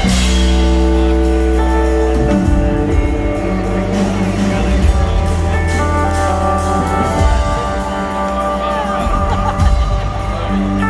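A rock band playing live through a concert sound system, with long held chords over heavy bass. The music comes in suddenly at the start.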